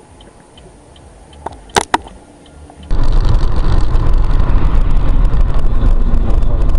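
A few sharp clicks, then about three seconds in a sudden switch to the loud, steady rumble of a car driving on the road.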